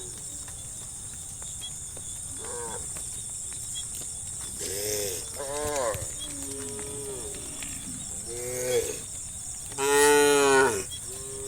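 Cattle mooing one after another: about six calls, each rising and falling in pitch. The loudest and longest, about a second, comes near the end.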